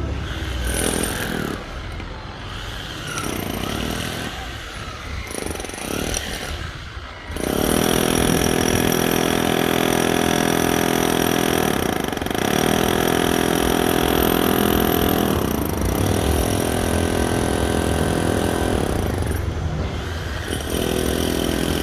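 Electric demolition hammer breaking concrete: short stop-start bursts for the first several seconds, then running steadily for the rest, with brief let-ups now and then.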